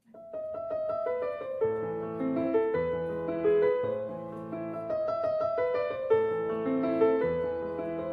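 Background piano music: a gentle melody over sustained chords, starting softly in the first half second.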